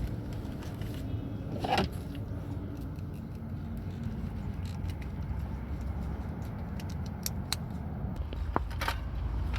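Steady wind and road rumble on a camera mic while riding a road bicycle, with a few short clicks and rattles from the bike.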